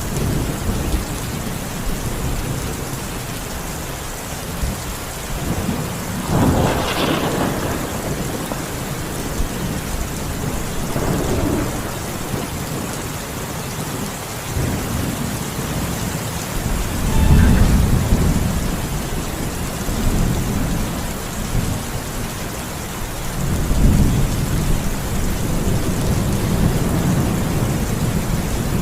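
Thunderstorm: steady rain with thunder rumbling several times. The sharpest thunderclap comes about seven seconds in and the loudest rumble a little past halfway.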